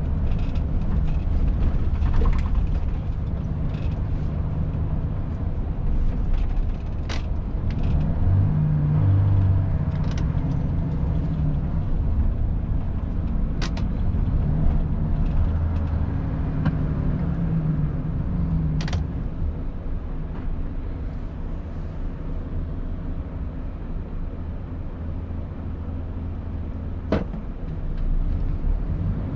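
Volvo FH 500 truck's 13-litre straight-six diesel running while driving: a steady low drone whose note swells and drops several times. A handful of short, sharp clicks and creaks come through it, the clearest near the end.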